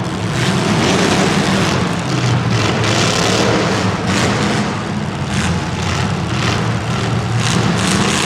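Motor vehicle engines running loud, with repeated swells of revving.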